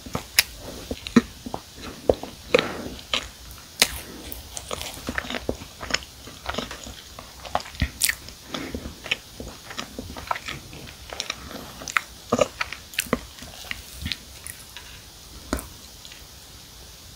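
A person chewing a mouthful of marshmallow-filled s'mores cookie: irregular mouth clicks and soft crunches, several a second at times, that stop near the end.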